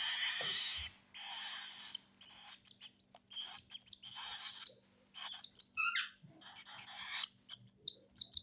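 Baby cockatiels begging for food: raspy, hissing calls of about a second each at first, then short chirps, with one sliding call about six seconds in.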